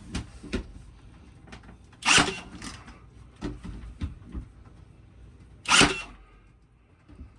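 A wooden board being shifted and pushed into place against plywood: two short scrapes, about two and six seconds in, with lighter knocks and taps between them.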